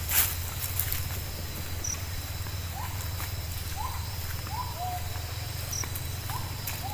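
An animal, most likely a bird, repeats a short whistled call about four times from about three seconds in, each note rising and then levelling off. A sharp crackle comes right at the start, over a steady low rumble.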